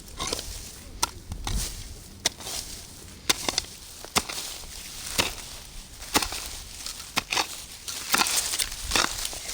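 Repeated chopping strikes from a hand tool, about one a second, with crunching and rustling between them. Wind rumbles on the microphone underneath.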